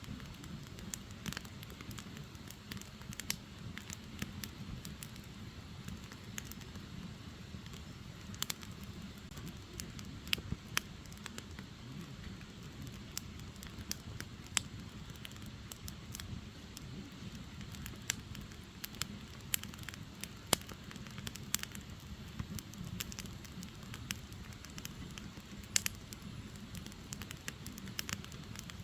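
Firewood burning: irregular sharp crackles and pops, several a second at times, over a steady low rumble of the fire.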